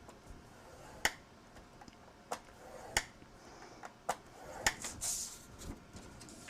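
Paper being scored by hand on a scoring board: about five sharp taps and clicks of the tool and paper, roughly a second apart, with a brief papery scrape about five seconds in.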